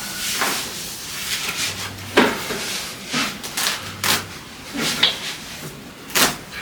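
Gym weights and equipment knocking and clanking: a series of sharp knocks, roughly one every half second to second, the loudest about two seconds in.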